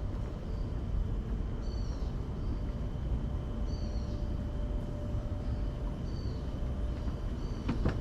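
A bird calling repeatedly: short, high two-note chirps every one to two seconds over a steady low rumble, with a faint steady high tone behind and a couple of sharp clicks near the end.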